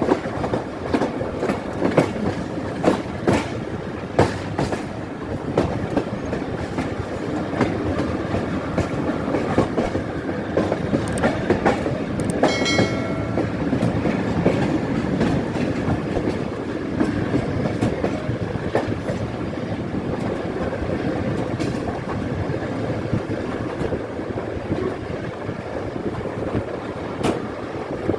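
Passenger train running along the track: a steady rumble with repeated wheel clicks over the rail joints. A brief pitched tone sounds about twelve seconds in.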